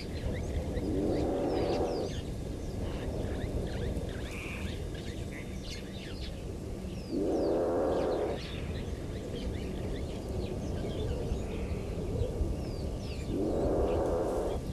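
An unidentified low, rough, noisy sound repeated three times about six seconds apart, each lasting a second or so, over the steady chirping of many small birds.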